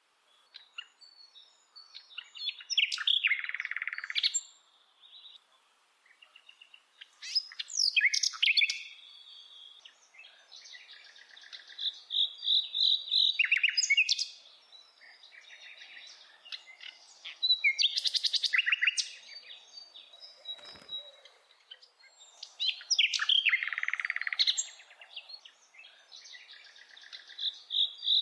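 A bird singing in repeated phrases of high chirps and fast trills, a new phrase every four or five seconds with short pauses between.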